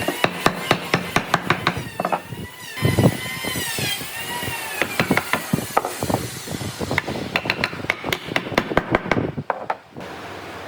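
Rapid, irregular sharp knocks of a tool striking wood, with faint wavering tones under them in the first few seconds. About ten seconds in, the knocking stops and a steady even noise takes over.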